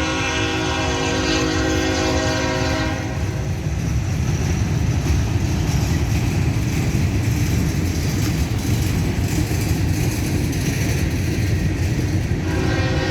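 A CSX freight locomotive's air horn sounds a chord for about three seconds. Then comes the low rumble of the slow-moving train, running at about 10 mph under a speed restriction. The horn sounds again near the end.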